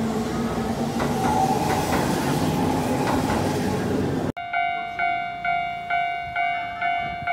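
Keihan electric train running along the platform, a steady rumble with faint wheel clicks. About four seconds in it cuts abruptly to a Japanese level-crossing alarm ringing, a little over two strikes a second.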